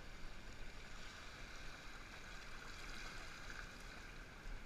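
Steady rush of river water, muffled by a GoPro's waterproof housing.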